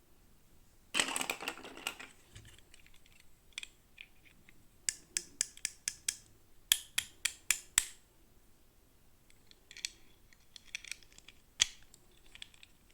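Toy packaging being handled and opened: a burst of plastic crinkling about a second in, then a quick run of sharp plastic clicks and taps, with a few more scattered taps near the end.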